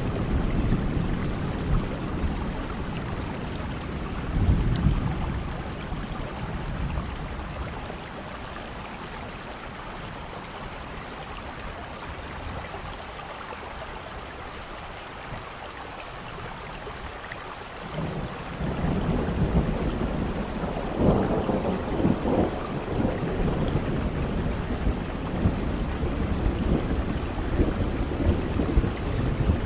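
Steady rain with thunder: a short rumble about four seconds in, then a longer, louder rumble starting at about eighteen seconds, with sharper cracks a few seconds later.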